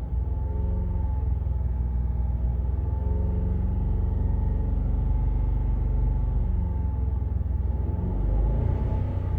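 Land Rover LR4 engine running warm at a steady idle.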